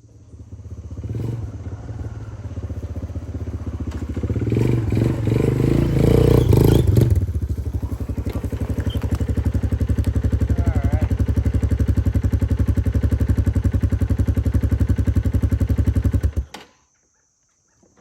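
Chainsaw on an Alaskan chainsaw mill ripping a board from a log. The engine grows louder and uneven over the first several seconds, runs steady under load, then cuts off suddenly about a second and a half before the end.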